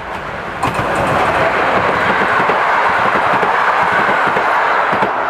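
Passenger train hauled by a PKP EP07 electric locomotive passing close at speed: loud rolling rail noise that rises sharply about a second in as the train draws level, then holds as the coaches go by, with wheels clattering over the rails.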